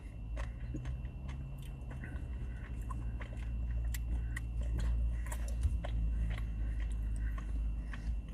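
Close-up eating sounds: a mouthful of chocolate ice cream Blizzard with chewy brownie pieces being chewed, with many small scattered clicks and smacks, over a low steady hum.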